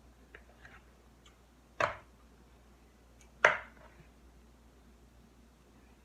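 Kitchen handling sounds: a few faint clicks, then two sharp knocks about a second and a half apart, the second one louder.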